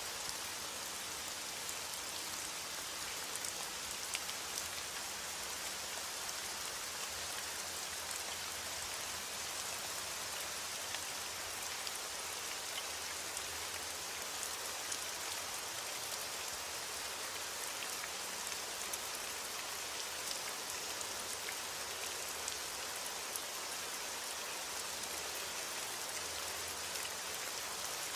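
Heavy rain on a window: a steady, even hiss of rain with many small scattered ticks of drops striking the glass.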